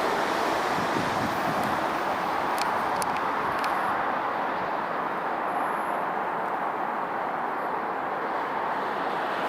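A train rolling through on the rails: a steady rushing noise of wheels on track, with a few sharp clicks about three seconds in.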